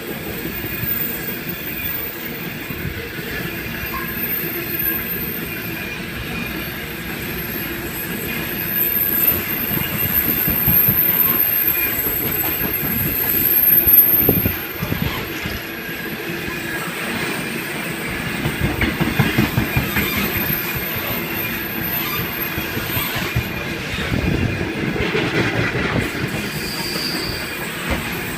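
Freight train hauled by 81 class diesel locomotives rolling past, its wheels clicking over the rail joints with high-pitched wheel squeal.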